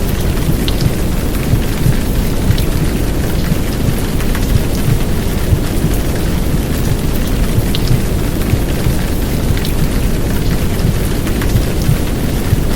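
Heavy downpour rain: a dense, steady wash of noise, heaviest in a deep low rumble, with scattered sharp drop ticks on top.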